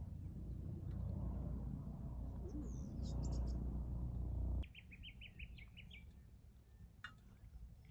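Wild birds calling: a few high notes, then just after the middle a quick run of about eight short repeated notes. Under the first half a low rumble runs, then cuts off suddenly.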